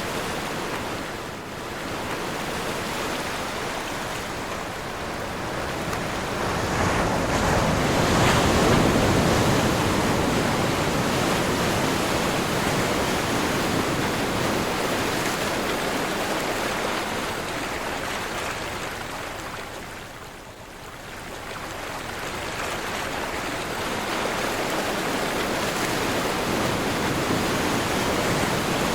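Ocean surf rushing and washing in strong wind. The surf swells to its loudest about eight seconds in and dips briefly about twenty seconds in.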